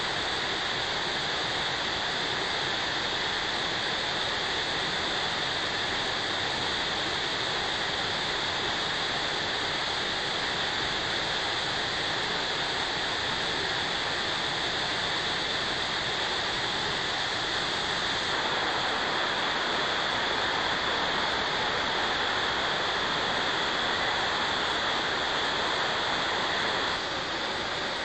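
Mototaki Fukuryūsui waterfall, spring water that has flowed underground pouring out over a broad rock face, rushing steadily, a little louder about two-thirds of the way in.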